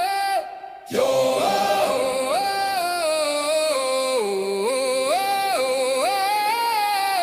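A wordless, chant-like sung melody of long held notes that step up and down, with a short break about half a second in.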